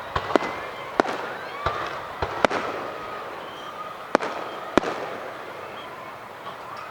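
Aerial fireworks bursting: about eight sharp bangs in the first five seconds, some in quick pairs, over a steady crackle. The bursts thin out near the end.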